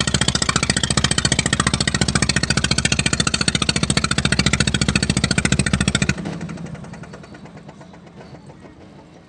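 Wooden klotok river boat's engine running with a fast, even chugging beat, then dropping off sharply about six seconds in to a much quieter chug that fades away.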